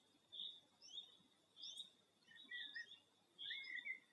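Faint birdsong: short high chirps repeated about every half second, with lower warbled notes from a second bird joining in over the second half.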